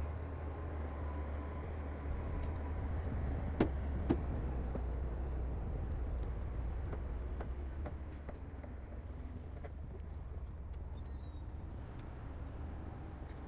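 Heavy diesel earthmoving machinery running with a steady low rumble, with two sharp metallic clanks about half a second apart a few seconds in. The rumble eases slightly in the second half.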